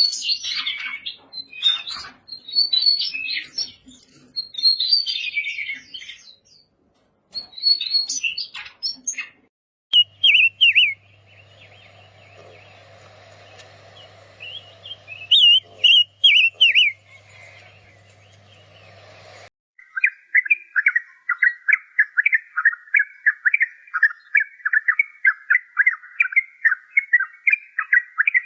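Daurian redstart calls and song in three separate stretches. There are dense high chirps for about nine seconds. Then come short phrases over a steady low hum. The last stretch, starting about 20 seconds in, is a fast run of repeated notes.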